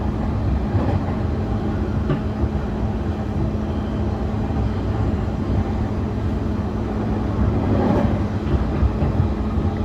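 Running noise inside a JR East E531 series electric train: a steady rumble of wheels on rail with a constant low hum, and a sharp click about two seconds in.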